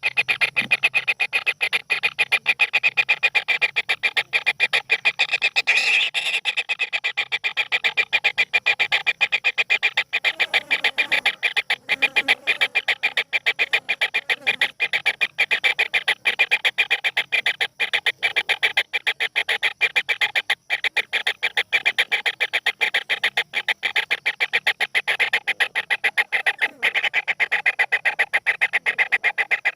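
Bird chatter: a rapid, unbroken train of short clicking notes.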